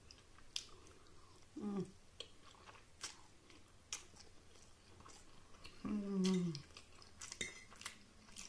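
A person chewing a mouthful of spaghetti close to the microphone, with scattered small wet mouth clicks. Two short falling hums come through, a brief one a little under two seconds in and a longer one about six seconds in.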